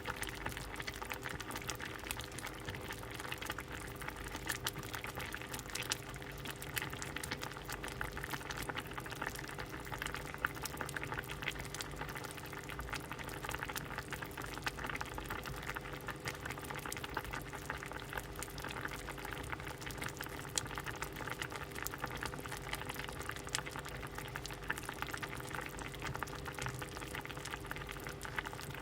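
A pot of soup boiling steadily, with a dense bubbling and popping that doesn't let up, over a faint steady hum.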